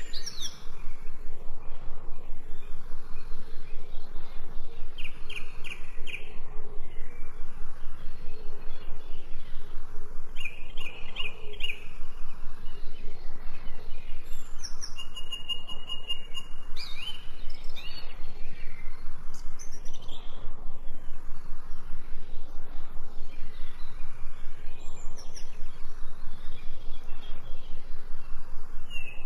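Several birds chirping and singing in short, scattered phrases, one holding a steady high whistle for about a second midway, over a constant background noise that pulses quickly and evenly.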